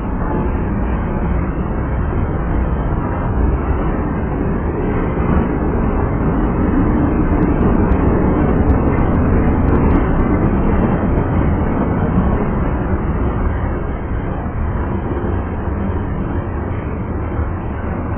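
Freight cars (tank cars and covered hoppers) of a Canadian Pacific train rolling steadily past close by, a continuous rumble of steel wheels on the rails that swells a little about halfway through and eases toward the end.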